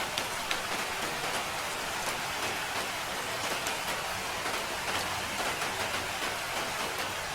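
Steady rain falling, an even hiss with many small drop impacts scattered through it.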